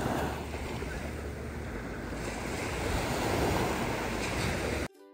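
Sea waves washing onto a sandy beach, with wind buffeting the microphone as a low rumble. The surf swells about three seconds in and cuts off abruptly near the end.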